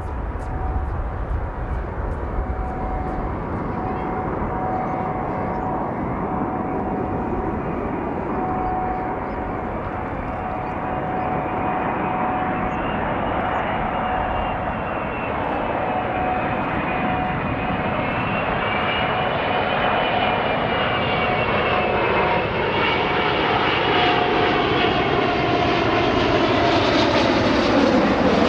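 Airbus A380-861's four Engine Alliance GP7200 turbofans on landing approach: a rumbling roar with steady whining tones, growing louder, the whine sliding down in pitch near the end as the jet passes close by.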